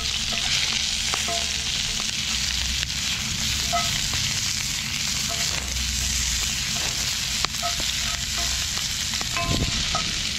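Onions and bell peppers sizzling steadily in oil in a cast-iron skillet over a wood fire, with a spatula stirring and scraping them now and then.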